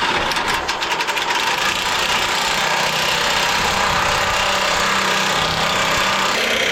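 Gasoline engine of a Woodland Mills HM130 Max portable bandsaw mill running steadily, its tone changing slightly near the end.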